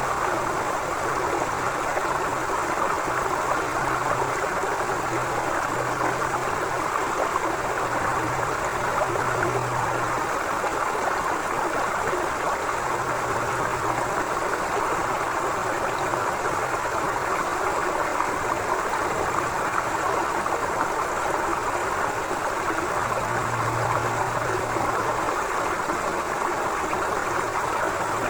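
River flowing steadily: an even, continuous rush of water, with a faint low rumble that swells now and then.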